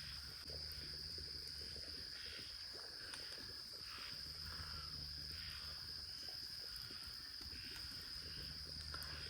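Night insect chorus, crickets keeping up a steady high-pitched drone, with softer calls repeating about once a second beneath it.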